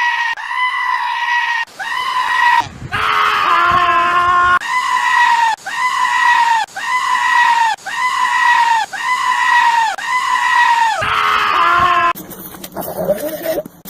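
A goat screaming over and over, about one high-pitched cry a second, each ending in a downward slide, with one longer, wavering cry a few seconds in. Near the end the cries give way to quieter, lower-pitched bleats.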